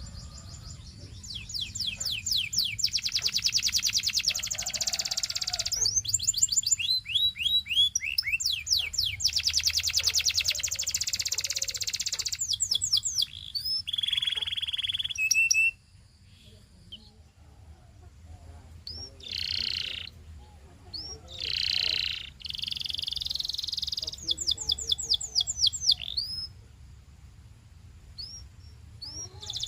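Domestic canary singing long phrases of fast repeated trills and rolls, with a held buzzy note in the middle and a short pause about halfway through before it takes up its song again.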